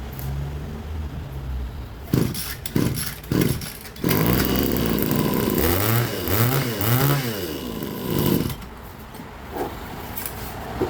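Small engine of a gas-powered brush cutter: three short bursts, then it runs loud for about four seconds, revving up and down three times, before it drops away.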